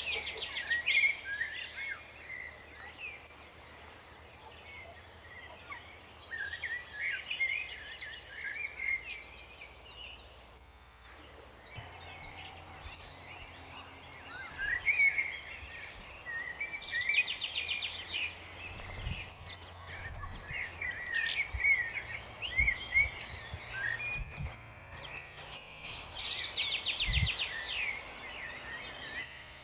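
Songbirds singing at a lake, a mix of chirps and song phrases, with a fast trill heard three times. A faint low rumble and a few soft low thumps lie underneath.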